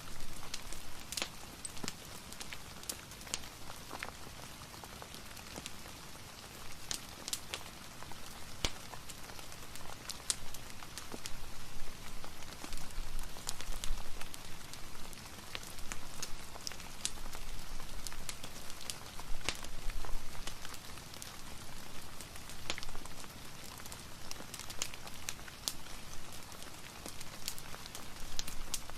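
Soft steady rain hiss mixed with a crackling wood fire, with scattered sharp pops and clicks at irregular intervals.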